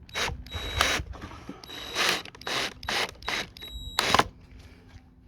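Power drill driving a large screw into thin scrap wood in a series of short bursts, with a faint motor whine in some of them.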